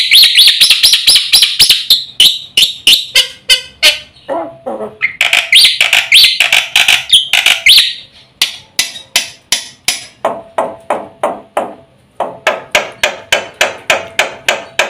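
Black-winged myna (jalak putih) singing a fast, loud song: rapid runs of sharp repeated notes, about five a second, broken by louder, higher chattering phrases at the start and again about five seconds in.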